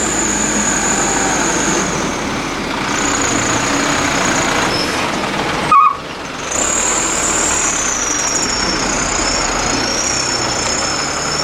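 Heavy truck's diesel engine running close by, steady and loud, with a brief loud sharp sound about six seconds in.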